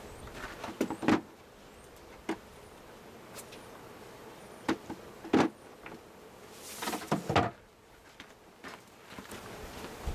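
Wooden beehive frames and boxes knocking and scraping as they are handled, several separate knocks with the sharpest about a second in and near the middle, over a background hum of bees.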